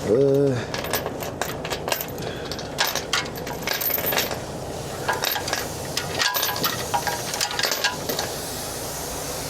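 Steel tie-down chains clinking and clanking in irregular metallic clicks as they are handled to chain down a load.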